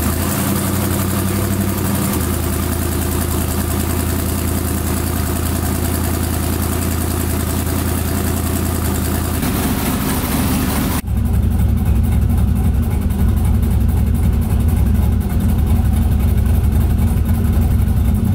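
Turbocharged LS V8 idling at about 900 rpm just after a start, with misfires that can be heard in the idle. About eleven seconds in the sound cuts to a heavier, more muffled version heard from inside the car.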